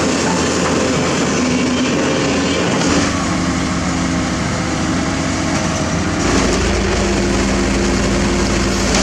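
Heavy diesel construction machinery running steadily, with a low rumble. The sound changes abruptly about three seconds in and again about six seconds in.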